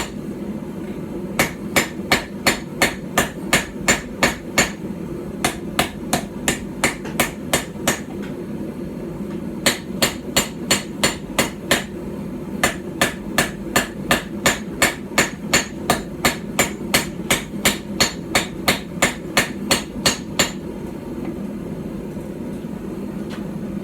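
A small hand-forged hammer, about 12 ounces, striking steel on a small iron stump anvil while forging a knife. The sharp, ringing blows come about three a second in several runs with short pauses between them, and stop a few seconds before the end. A steady low hum runs underneath.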